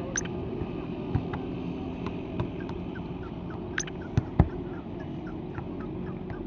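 Birds giving short chirps and a few sharp calls over a steady low hum, with two loud knocks about four seconds in.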